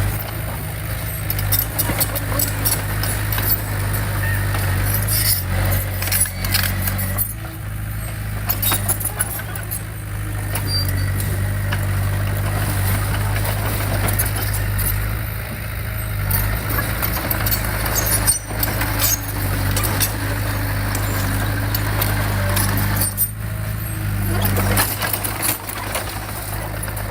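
Heavy construction machine's diesel engine running steadily under load, with frequent metallic clanks and rattles over it.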